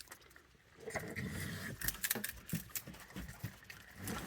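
Raccoons feeding at treat trays: irregular chewing and scuffling, with a few sharp clicks and clinks of the dishes.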